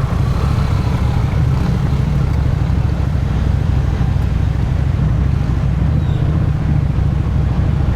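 Motorcycle engine and exhaust running at a steady cruise, without revving, with road and wind noise over it.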